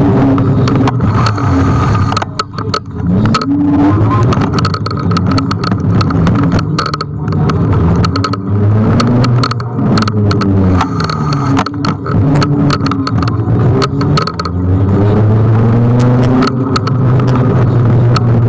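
Road traffic: car engines changing pitch as they accelerate and pass, with many sharp knocks and clicks.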